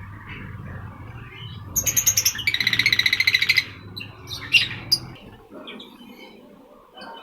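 Lovebirds calling: a loud run of rapid, shrill chirps about two seconds in that lasts about two seconds, then a few single sharp calls. A low steady hum runs underneath and stops about five seconds in.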